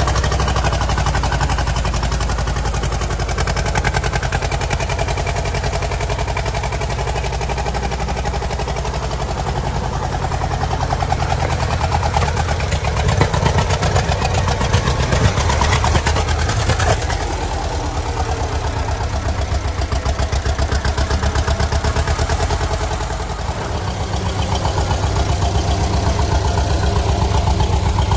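1958 Massey Ferguson 35 tractor's petrol/TVO engine idling with a steady, even firing beat, getting a little louder for a few seconds around the middle.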